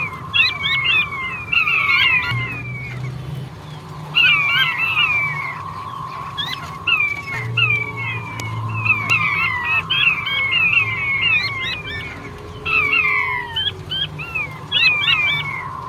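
Male king quail (puyuh batu) calling: clusters of quick, high whistled notes that slide downward, repeated every second or two, over a thin steady whistle-like tone.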